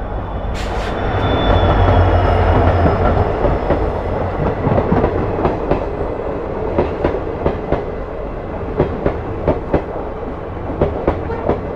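Passenger train wheels clattering over rail joints: a loud rumble swells in the first few seconds, then gives way to sharp, irregular clicks.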